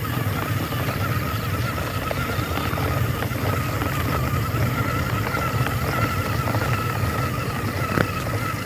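Small electric motor of a model three-wheeled motorbike running steadily, a whine whose pitch wavers slightly, with light clicking and rattling.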